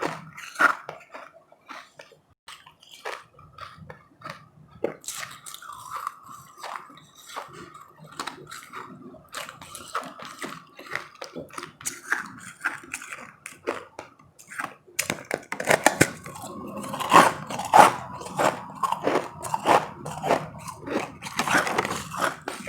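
Ice being bitten and chewed up close, a dense run of sharp crunches. The crunching grows busier and louder in the last several seconds.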